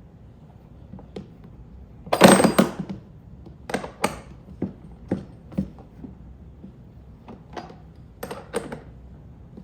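Metal clatter and knocks from hand tools and cart hardware while bolts on a Gorilla dump-bed cart are tightened. A loud rattling clatter comes about two seconds in, followed by a string of separate sharp clicks and clinks.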